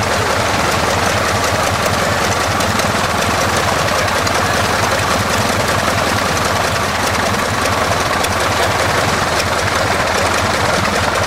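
Piston engine running loud and steady at a constant speed, with a fast even pulse.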